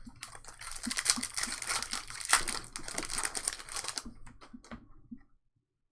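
Trading-card pack wrapper crinkling and tearing as a pack is opened: a dense crackle for about four seconds, then a few light clicks.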